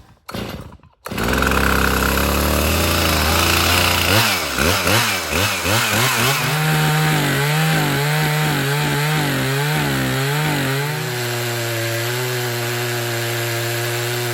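Two-stroke chainsaw starting up and running, then revved hard with its pitch wavering before it holds high, settling slightly lower near the end, as it goes back to milling pine on a freshly sharpened chain.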